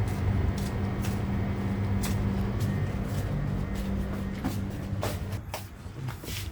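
Steady low mechanical hum of a running motor or engine, with scattered clicks and knocks; the hum weakens after about five seconds.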